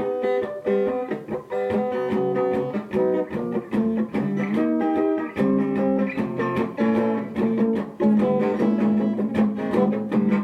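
Guitar playing an instrumental passage, with notes plucked and strummed in a steady rhythm.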